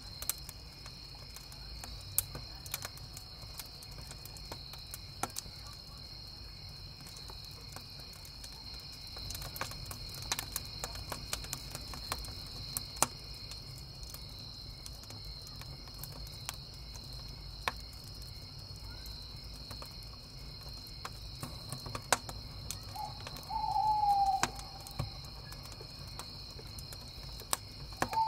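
Wood fire crackling with scattered sharp pops over steady chirring of crickets. Near the end an owl hoots, a falling call, and starts another right at the close.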